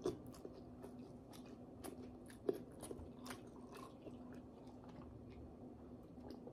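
A person chewing food close to the microphone: faint scattered mouth clicks and smacks, with one sharper click about two and a half seconds in. A faint steady hum runs underneath.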